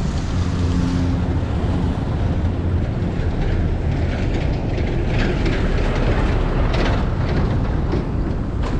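A vehicle engine running with a steady low drone, mixed with road and wind noise, and a few brief rattles partway through.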